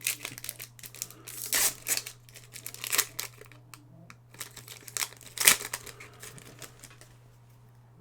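Foil Pokémon booster pack wrapper crinkling and tearing open, in irregular crackles that die away about six and a half seconds in.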